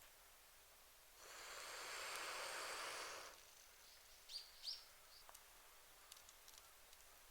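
Quiet outdoor ambience. A two-second rush of noise swells up about a second in and then fades. Shortly after, a bird gives two short high chirps.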